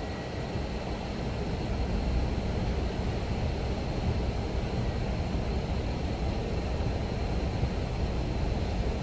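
Steady low rumbling noise, heaviest in the bass, with a faint thin high whine over it.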